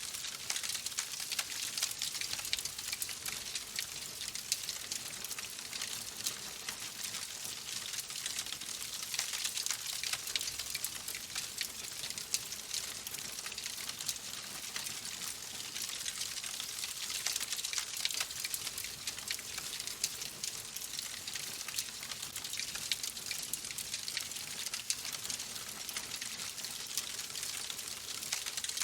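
Wood fire crackling steadily in a fireplace, a dense stream of small pops and snaps over a soft hiss.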